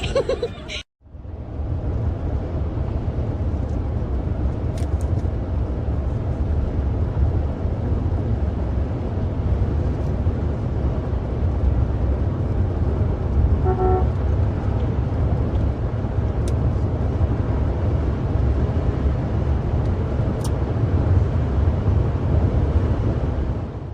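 Steady low rumble of road noise from a moving car, with one short car horn toot about halfway through.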